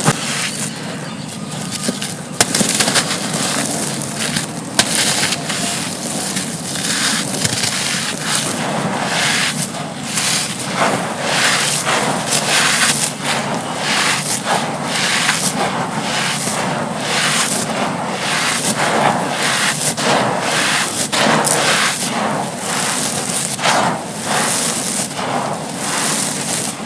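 Dry, gritty sand slabs being crushed and crumbled, giving a continuous stream of crisp crunches and crackles with many sharp snaps as pieces break apart.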